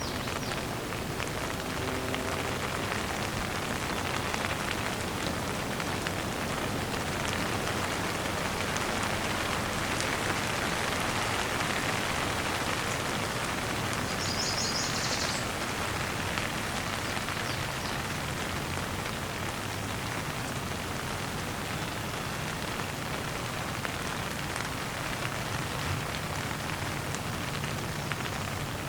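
Steady rain falling and pattering on surfaces, swelling slightly about a third of the way in. A brief high-pitched chirp sounds about halfway through.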